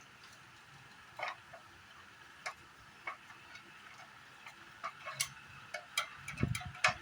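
Scattered light clicks and taps of parts and tools being handled during air-conditioner disassembly, a few a second apart at first and coming quicker near the end, over a faint steady hum.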